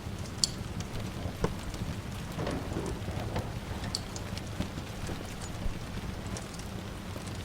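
Steady rain falling, with a few sharp crackles from a wood fire in a fireplace, the clearest about half a second, a second and a half and four seconds in.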